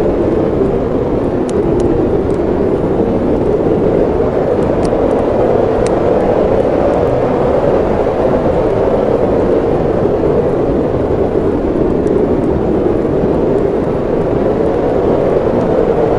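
Steady roar of snowstorm wind, with a few faint crackles of a wood fire scattered through it.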